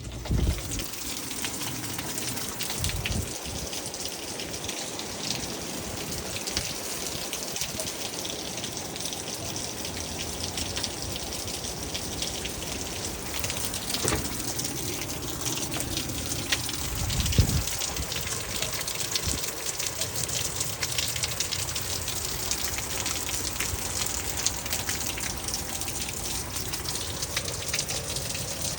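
Heavy rain falling steadily in a storm, a dense hiss of many drops, with a few short low thumps near the start and about two-thirds of the way through.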